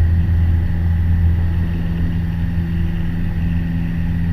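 Piper Warrior's four-cylinder Lycoming engine and propeller running steadily at full takeoff power, a constant low drone during the climb-out after a touch and go.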